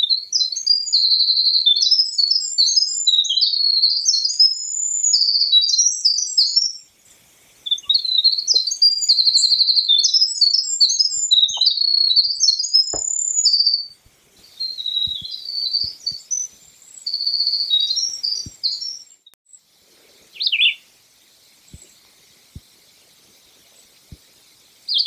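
A small songbird singing long, rapid, high-pitched warbling songs with fast trills: two full songs of about seven seconds each, then a softer, shorter song. A single short falling call comes near the end.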